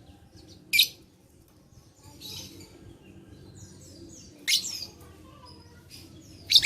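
Lovebird calling: three loud, short, shrill calls, about a second in, about four and a half seconds in and at the very end, with softer chattering calls between them.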